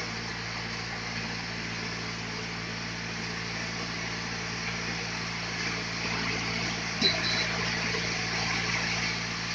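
Sawmill machinery running steadily: a motor hum with an even hiss over it, growing a little louder in the second half, and a single sharp knock about seven seconds in.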